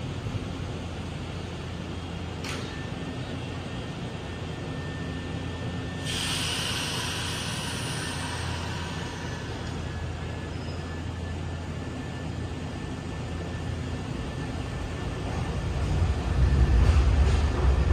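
Steady low hum of a large station hall, with a hiss about six seconds in that fades away over a few seconds. Near the end the low rumble of a Nankai limited express train moving along a far platform track grows louder.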